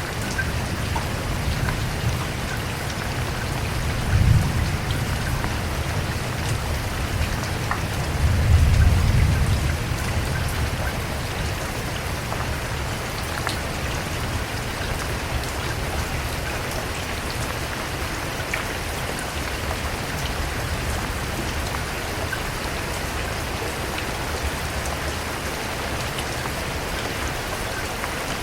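Steady rain falling, an even hiss of many drops. Two brief low rumbles come about four and nine seconds in.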